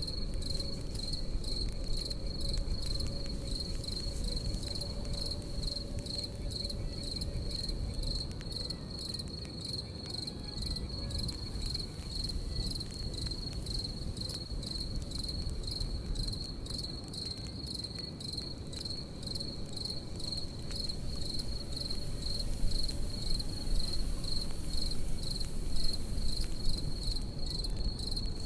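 Crickets chirping in a steady, fast-pulsing high trill over the low rush and crackle of a campfire, with a few louder crackles near the end.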